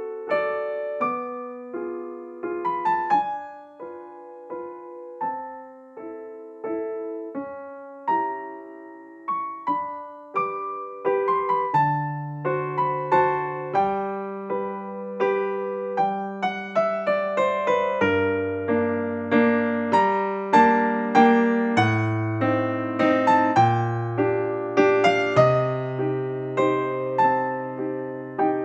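Background piano music: a slow, gentle melody of struck notes and chords, with deeper bass notes joining about twelve seconds in.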